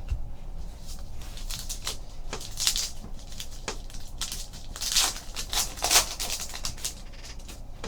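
Trading cards and their packaging being handled: a run of small clicks and crinkling rustles, louder about a third of the way in and again twice later on.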